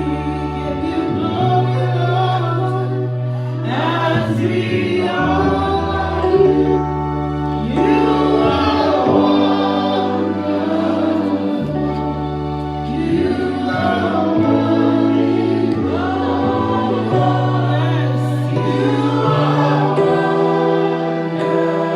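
A congregation and choir singing a slow worship song over a sustained keyboard accompaniment with a steady bass line.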